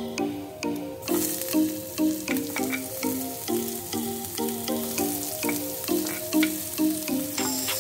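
Hot oil sizzling in a frying pan as garlic and then sliced onion sauté; the sizzle gets much stronger about a second in, when the onion goes in. Background music with a repeating melody plays throughout.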